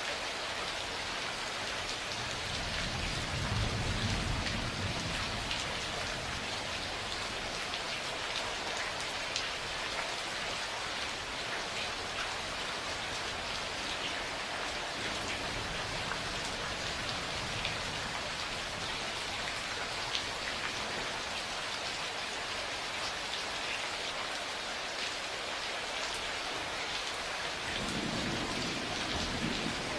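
Steady rain falling, with scattered drops ticking on a surface. Low rolls of distant thunder swell a few seconds in and again near the end.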